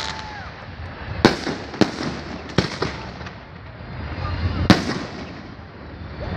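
Aerial firework shells bursting in a salute display: four sharp bangs, the loudest near the end, over a continuous low rumble.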